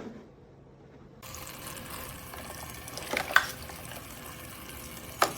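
Water running from a battery-powered toy play sink faucet, switching on about a second in and running steadily, with two light knocks, one around three seconds in and one near the end.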